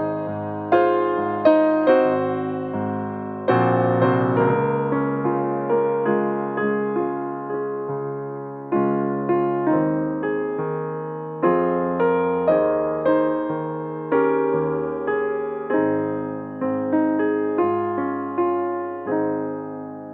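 Piano playing a slow chordal piece, each chord struck and left to ring and decay, with the last chord dying away near the end.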